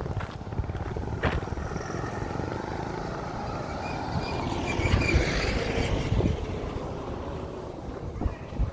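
A motor vehicle passing on the road, swelling to its loudest about five seconds in and then fading.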